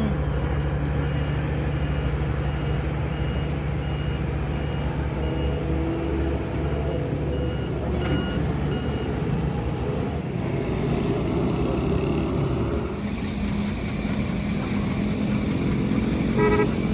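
A truck engine running steadily, with a reversing alarm beeping about twice a second for roughly the first nine seconds.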